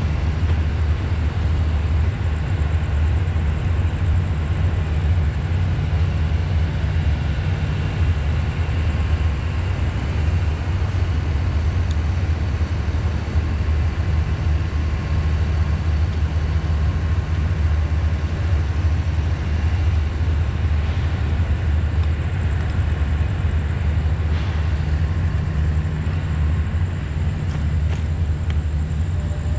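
A diesel train's steady low rumble, with a deep engine hum and no rise or fall in level.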